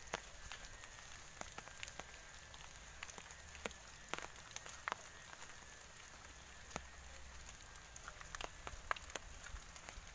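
Rain falling: a faint steady hiss with scattered, irregular drips and ticks.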